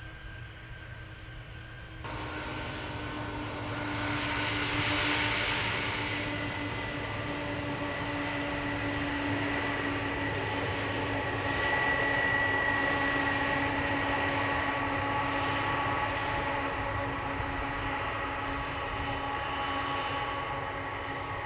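Jet airliner's engines running: a steady noise with several whining tones. It steps up suddenly about two seconds in, then swells twice.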